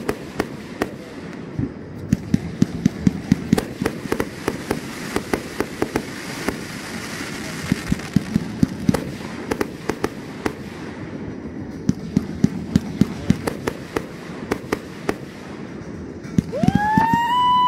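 Consumer aerial fireworks firing in quick succession: sharp bangs and crackling bursts, several a second. Near the end a whistle rises in pitch and holds for about a second.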